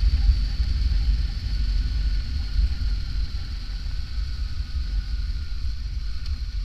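Motorcycle on the move, recorded by a camera riding on the bike: a steady low rumble of wind on the microphone, with the engine running underneath.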